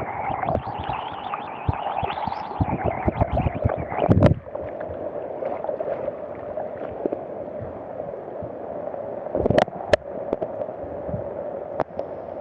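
Rushing floodwater making a steady loud rush, with scattered knocks and bumps: a loud pair of them about four seconds in and another near ten seconds.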